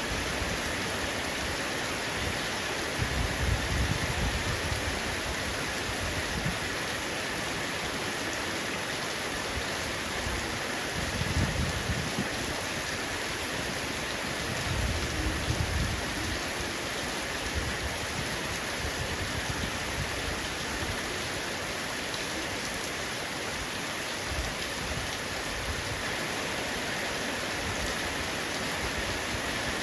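Heavy rain falling steadily on a roof, an even hiss of drops. Three brief low rumbles swell up about three, eleven and fifteen seconds in.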